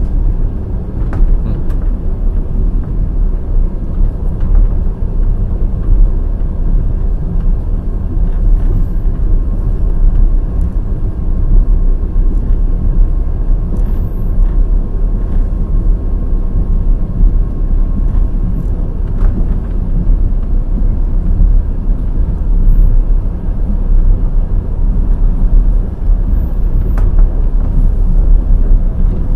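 Passenger express train running at speed: a steady low rumble of wheels on the track, with sharp clicks and knocks as the wheels pass over rail joints.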